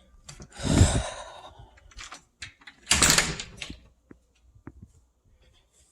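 Handling noise from objects being moved on a tabletop: two brief rustling swishes, about a second in and about three seconds in, with scattered light clicks and taps.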